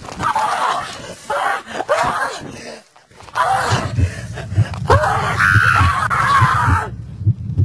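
A person screaming and wailing in distress, with a repeated low thudding joining in about three seconds in.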